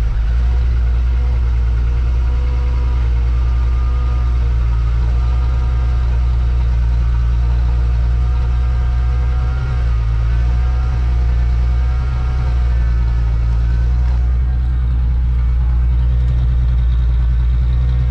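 Volkswagen Jetta wagon's 12-valve VR6 idling steadily just after a cold start.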